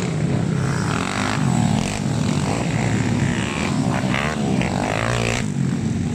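Honda XRM motorcycle engines running hard in a motocross race, a steady loud buzz with wavering revs.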